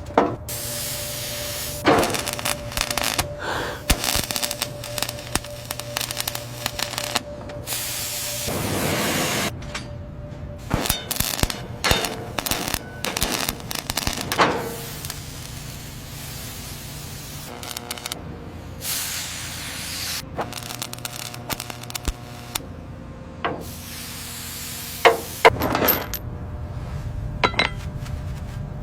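Workshop sounds of engine repair: hissing sprays of air or liquid, broken up by many sharp metallic clinks and knocks of tools on engine parts.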